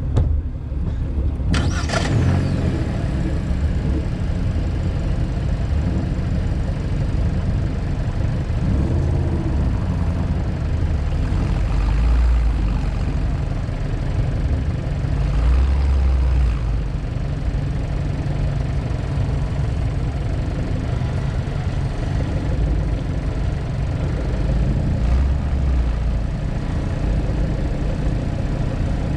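Hyundai Elantra N's turbocharged four-cylinder engine running steadily at low revs, with a brief sharper rising sound about two seconds in.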